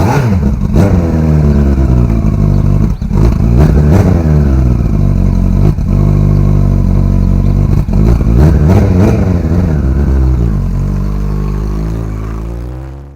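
Motorcycle engine revved in repeated blips, its pitch rising and falling several times, then holding steadier and fading over the last couple of seconds.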